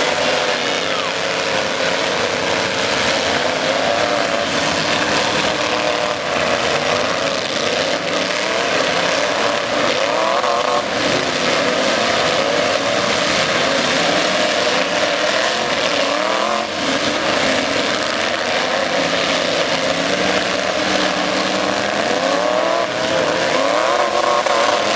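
Several demolition derby trucks' engines running and revving at once, their pitches rising and falling over one another in a constant din.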